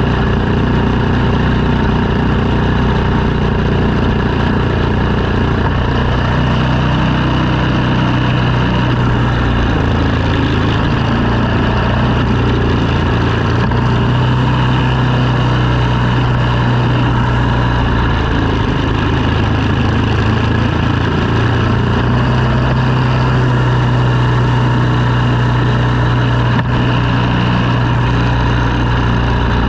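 An engine running steadily under light load, its low hum shifting in pitch a few times, around 10, 14, 18 and 22 seconds in.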